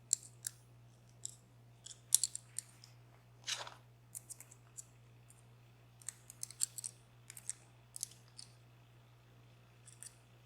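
Irregular small, sharp metallic clicks of hand tools handling the parts of a DOM Plura lock cylinder while it is being taken apart, with one longer scrape about three and a half seconds in.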